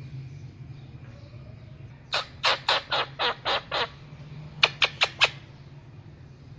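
Ringneck parrot calling: a run of seven short, sharp squawks about two seconds in, then four quicker, louder ones about a second later. A steady low hum runs underneath.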